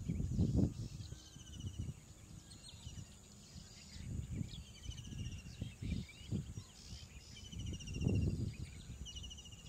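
Outdoor wildlife ambience: short, high-pitched pulsed chirping trills repeat every second or two, with irregular low rumbling gusts on the microphone, loudest near the start and again about eight seconds in.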